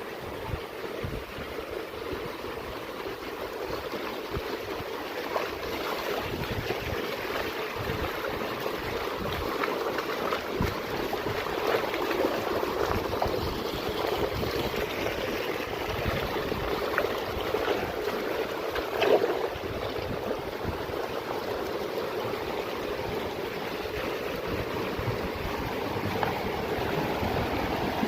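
Steady rushing of flowing water, with a brief louder knock about nineteen seconds in.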